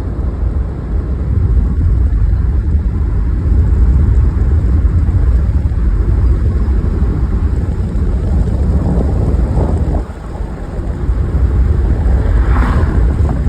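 Wind buffeting the microphone over road noise from a moving car: a steady low rumble that dips briefly about ten seconds in.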